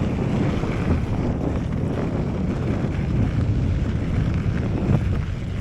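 Wind buffeting the microphone over the rumble and rattle of a rigid mountain bike riding fast over rough dirt and gravel.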